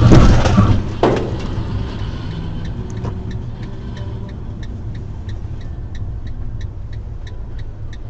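Vehicle and road noise from a crash clip: a loud hit at the start and a sharper knock about a second in, then a steady low rumble. Background music with a regular tick runs underneath.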